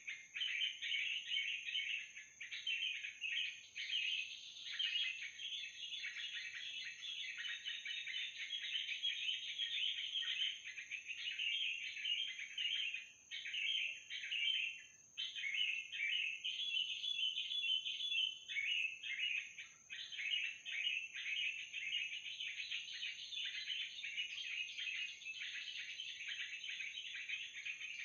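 Dense, nearly unbroken chattering calls of yellow-vented bulbuls (trucukan), the lure call used to draw the birds down into a mist net. There are a few short breaks, and a steady high thin tone runs underneath.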